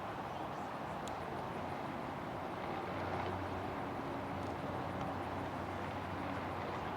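Steady hum of distant airliner jet engines across an airfield, with a faint low drone and no sudden changes.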